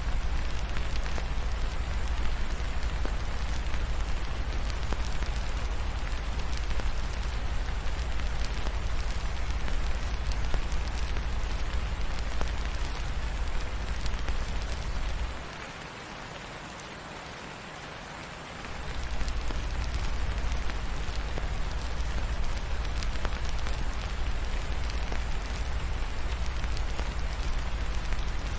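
Steady rain falling, with faint crackling from a fireplace among the patter and a deep low rumble underneath. The rumble drops away for about three seconds just past the middle, then returns.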